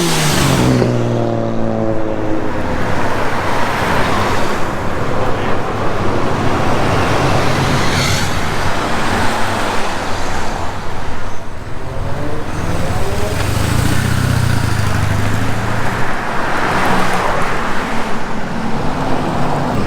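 Street traffic: vehicle engines running and passing over steady road noise, with one engine's note dropping away right at the start.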